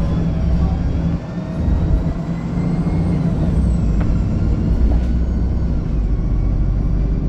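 VDL SB200 Wright Pulsar 2 single-deck bus heard from on board: a low engine rumble with a high whine drifting up and down in pitch, the vacuum-cleaner-like note behind the bus's 'Hoover' nickname. The rumble drops briefly about a second in.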